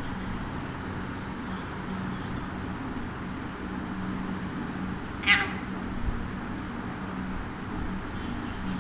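An Alexandrine parakeet gives one short, harsh call about halfway through, over a steady low hum.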